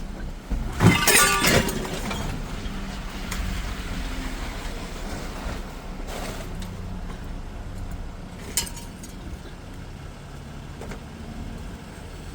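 Vehicle running with a steady low rumble. About a second in there is a loud clattering, clinking burst, and near nine seconds a single sharp click.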